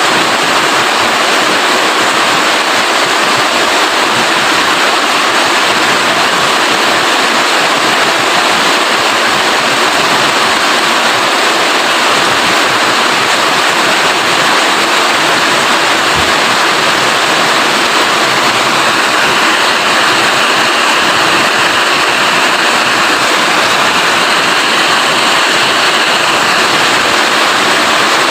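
Steady, heavy rain falling: a loud, even hiss of rain with no break.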